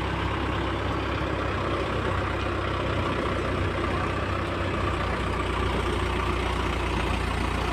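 Mahindra 575 tractor's diesel engine running steadily at an even, low-pitched pace.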